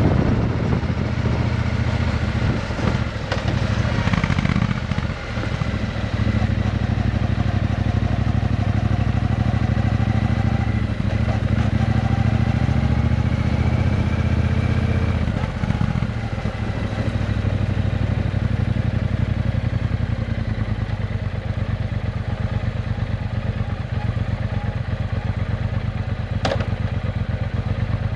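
Triumph Bonneville T120's 1200 cc parallel-twin engine running through an aftermarket Vance & Hines exhaust, a steady exhaust note with a couple of brief dips in level. A single sharp click sounds near the end.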